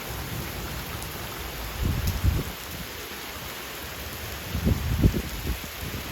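Heavy rain falling in a steady hiss, with low gusts of wind buffeting the microphone about two seconds in and again around five seconds.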